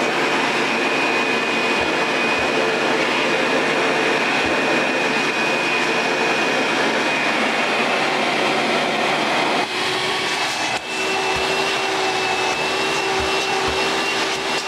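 Hoover Power Drive upright vacuum cleaner running steadily: a loud motor noise with a high whine over it. About ten seconds in, the sound dips briefly and the whine settles at a slightly different pitch.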